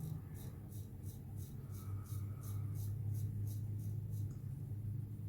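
Gillette Black Beauty adjustable safety razor scraping through lathered stubble in short, quick strokes, about four or five a second, over a steady low hum.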